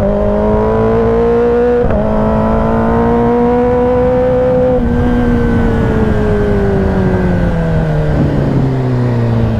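Kawasaki ZX-10R's inline-four engine pulling under way: the revs climb through two quick upshifts, then drop a little before five seconds in and fall steadily as the bike slows.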